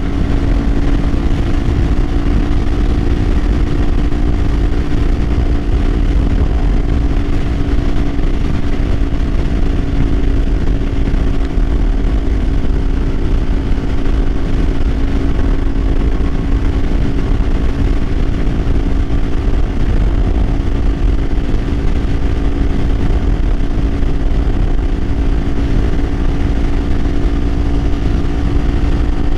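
Kawasaki Ninja 500's parallel-twin engine running at a steady cruising speed, its note holding one pitch throughout, under a heavy low wind rumble.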